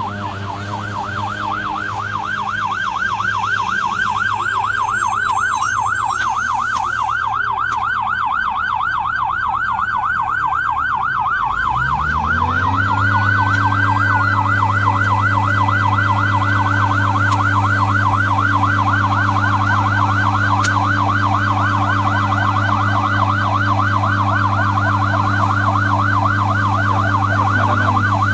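Emergency-vehicle siren sounding a fast, continuous warble, about three cycles a second. A low steady drone underneath rises in pitch and settles about twelve seconds in, and a second, slower wailing tone sweeps up briefly near the middle.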